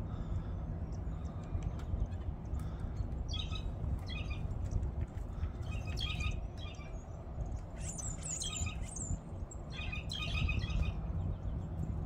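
Wild birds calling in short clusters of chirps and harsh notes a second or two apart, including a few high, falling notes about eight seconds in, over a steady low rumble of background noise.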